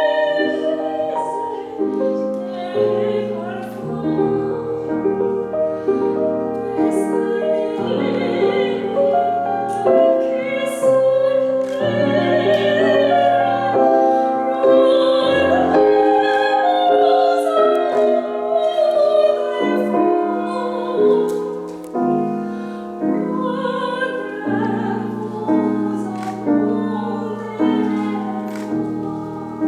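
A solo voice singing in a classical, operatic style, with vibrato on long held notes, accompanied by piano.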